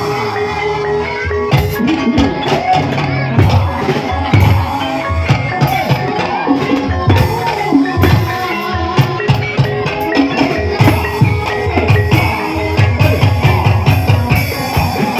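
Gamelan music accompanying an ebeg (kuda lumping) dance, with dense hand-drum strokes over sustained pitched notes.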